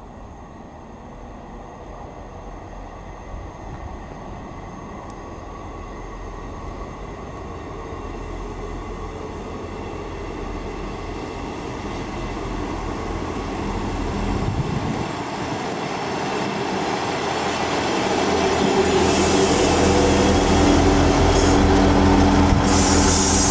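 Class 158 diesel multiple unit approaching and running in alongside the platform, its engine and rail noise growing steadily louder. A steady engine drone takes over in the last few seconds, and a high hiss comes twice near the end.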